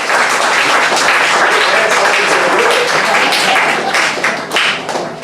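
Audience clapping and applauding, with a few voices mixed in. The applause dies down near the end.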